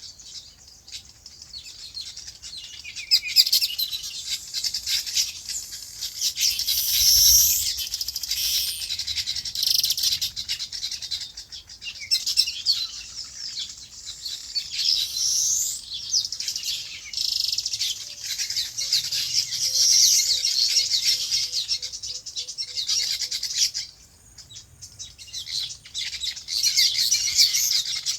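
Many small birds chirping together in a dense, continuous chorus of high, overlapping calls. It builds up over the first few seconds and has a short lull near the end.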